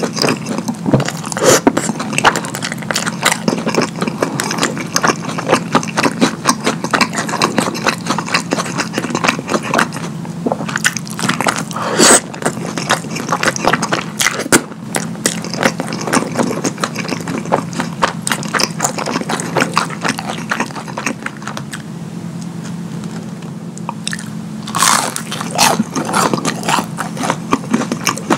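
Close-miked wet chewing and lip smacking of a burger drenched in creamy Alfredo sauce: a dense run of quick, sticky mouth clicks over a steady low hum. It eases off briefly, then a loud cluster of bites and smacks follows.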